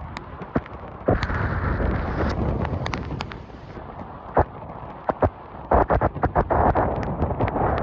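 Strong wind buffeting the microphone with a heavy rumble, and scattered sharp knocks of something striking, thickest about six seconds in.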